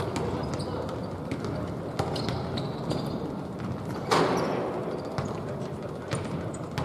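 Basketball game on a court: a ball bouncing in scattered knocks over a steady background din, with one loud thud about four seconds in that rings on briefly.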